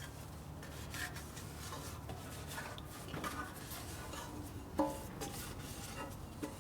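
Scattered clinks and rubbing of metal parts being handled, with one sharper knock about five seconds in, over a steady low hum.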